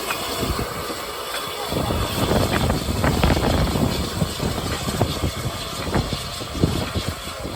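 Narrow-gauge train running along the track, a rumble with rattling and many short clicks; the low rumble grows stronger about two seconds in.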